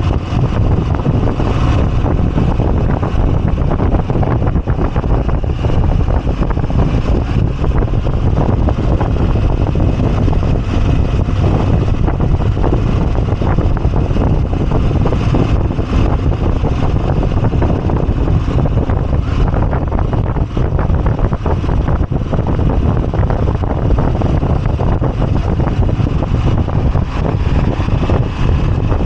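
Moto Guzzi V85TT's air-cooled transverse V-twin running steadily under way, mixed with wind noise on the microphone.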